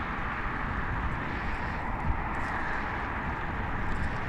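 Steady rush of wind and road noise while riding an e-bike under throttle.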